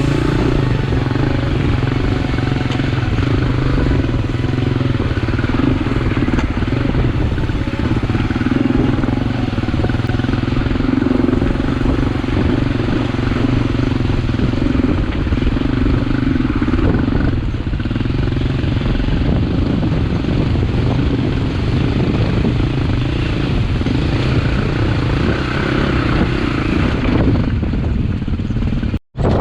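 Four-stroke KTM EXC-F enduro dirt bike engine running at a steady, fairly even speed under way, with wind and rough riding noise over it. The sound cuts out briefly near the end.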